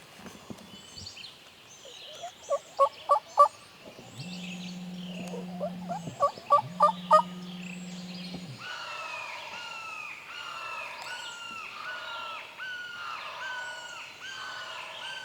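A wild turkey gobbling twice, each gobble a quick rattle of loud pulses, the first about two and a half seconds in and the second about six seconds in. Songbirds call throughout, a steady low drone runs between the gobbles, and from about nine seconds a bird repeats a falling call over and over.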